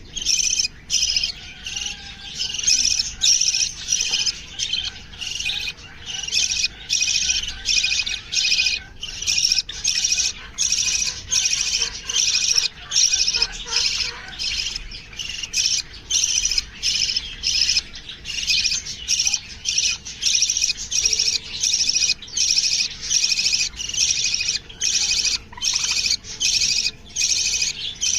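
Aviary birds chirping: a near-continuous stream of high, rapid calls in short bursts with brief gaps between them.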